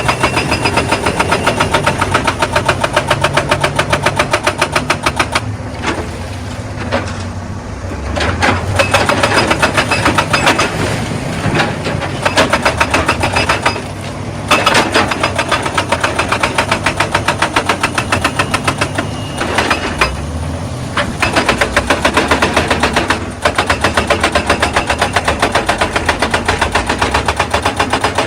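Excavator's diesel engine running under load while a hydraulic rock breaker hammers stone in rapid, even blows. The hammering stops a few times for a second or two and then starts again.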